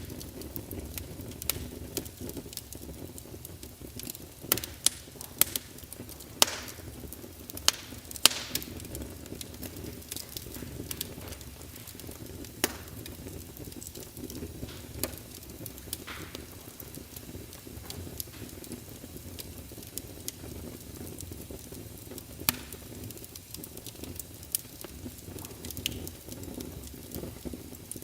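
Wood logs burning in a fireplace: a steady low rumble of flames with irregular crackles and sharp pops, a cluster of louder pops between about four and eight seconds in.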